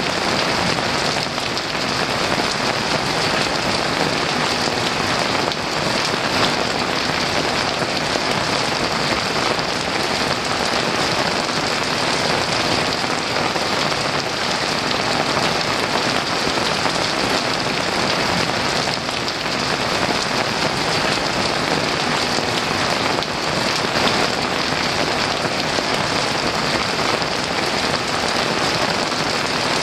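Heavy rain falling steadily: a dense, even hiss of downpour with many drops pattering.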